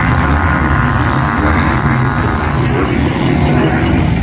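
Motocross bikes' engines running on the track, loud, with a heavy low rumble.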